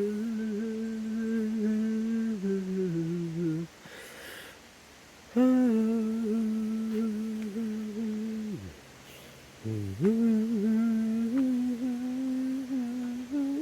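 A person humming long held notes, three in a row with short pauses between them, each note sliding down in pitch at its end.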